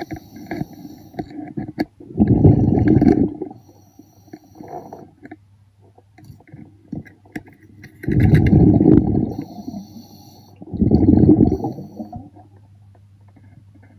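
A diver breathing underwater: bursts of exhaled bubbles rumble about two seconds in, around eight seconds and again near eleven seconds. A faint steady low hum fills the quieter gaps.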